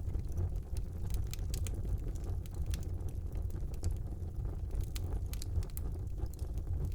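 Fire burning in a brick fireplace: a steady low rumble of flames with scattered sharp crackles and pops that come in bunches.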